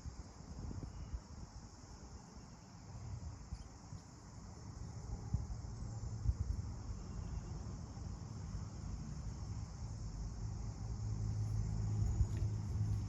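Steady high-pitched insect chorus, like crickets, with a low hum that grows louder through the second half.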